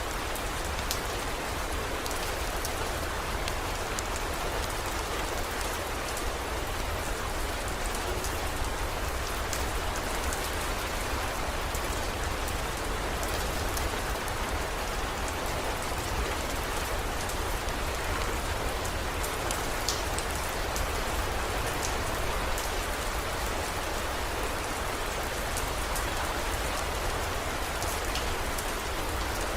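Steady heavy rain, a dense hiss with many small drop ticks over a constant low rumble.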